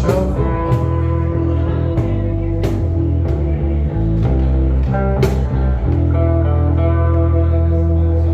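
Guitar playing a slow blues tune, finishing on a long held chord about six seconds in.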